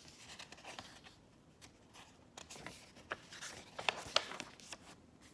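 Paper rustling and handling of a picture book as its page is turned: irregular soft rustles and light clicks, busiest in the second half.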